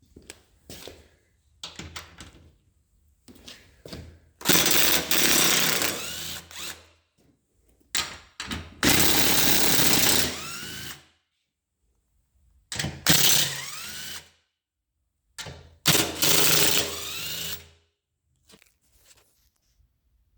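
Power drill running in four bursts of about one and a half to two and a half seconds each, its motor pitch rising as each run starts, with short clicks and knocks between the runs.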